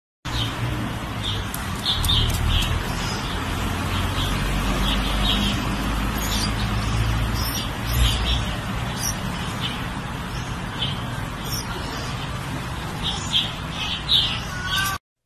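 Small bird chirping again and again in short, high chirps at irregular intervals, over a steady outdoor background hiss.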